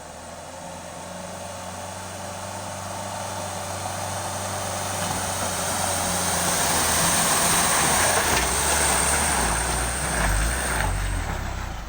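Truck engine running with a wide rush of road noise, growing steadily louder to a peak late on, then cut off at the end.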